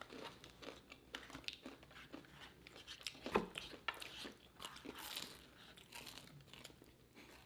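Close-up crunchy chewing and biting of fried chicken: scattered soft crackles with one sharper crunch a few seconds in.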